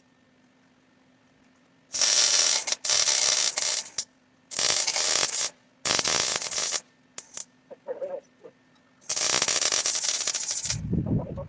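A shop tool run in about four short bursts of harsh, hissing noise, each starting and stopping abruptly, the last one the longest.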